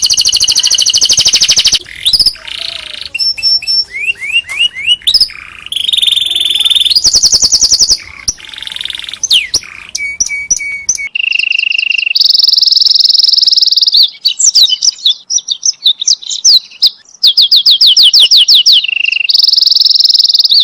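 Domestic canary singing a long, loud song of rapid trills and rolls and short held notes, switching to a new phrase every second or two.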